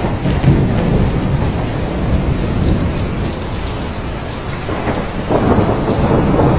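Steady heavy rain with low rolling thunder rumbling beneath it, the rumble swelling again about five seconds in.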